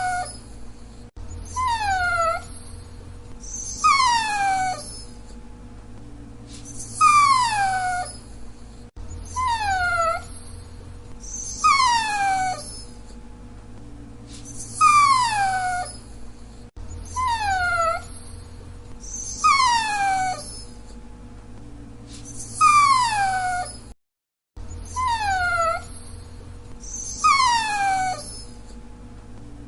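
Dachshund whining: short high-pitched whines, each sliding down in pitch, repeated about a dozen times, one every two to three seconds.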